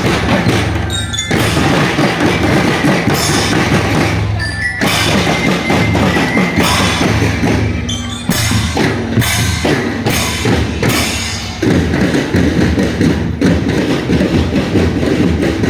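Marching drum band playing: bass drums and snare drums beating a steady rhythm, with metallic bell-lyre notes ringing over it.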